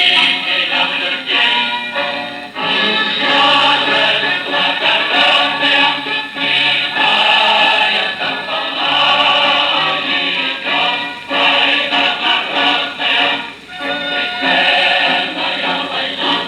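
Choral music, a choir singing sustained lines over accompaniment.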